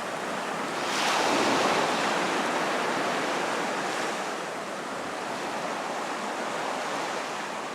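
Sea waves breaking and washing on a beach: the surf swells about a second in, then settles into a steady wash.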